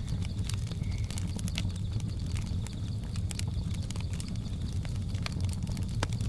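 Wood fire crackling, with scattered sharp pops and clicks over a steady low rumble.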